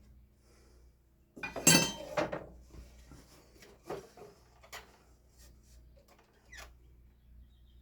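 A loud clatter of hard objects being handled on a workbench about a second and a half in, followed by a few scattered light knocks and clicks.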